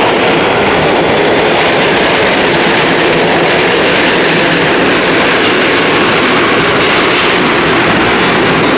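MTA R211A subway train running, a steady loud rumble of wheels on rail, with a few faint clicks.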